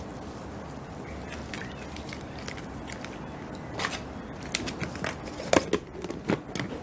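IKEA Tokig salad spinner being turned by hand with water and cloth pads inside, washing them: a steady churning with water sloshing, and clicks and knocks that get louder and more frequent about four seconds in.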